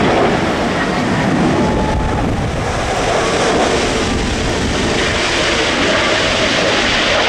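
Jet airliner engines running, heard through heavy gusty wind noise on the microphone. The sound is loud and steady throughout.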